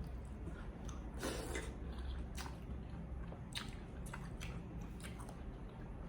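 A person chewing and biting food close to the microphone: irregular wet smacks and crunches, with a longer, louder crunch about a second in.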